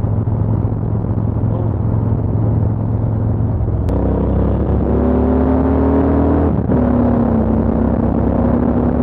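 Motorcycle engine running on the move over a steady low rumble. About four seconds in its engine tone comes up clearly and sags slightly in pitch, cuts out briefly near seven seconds, then holds steady.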